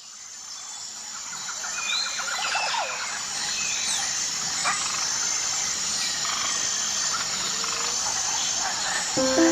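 Outdoor wildlife ambience fading in: insects trilling steadily with scattered bird calls and chirps. Music comes in just before the end.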